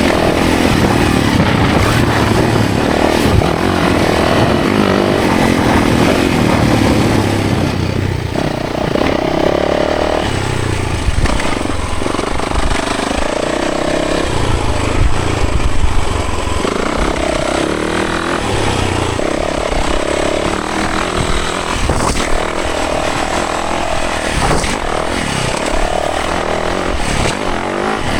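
Yamaha 450 dirt bike's single-cylinder four-stroke engine under way, its pitch rising and falling over and over as the throttle opens and closes.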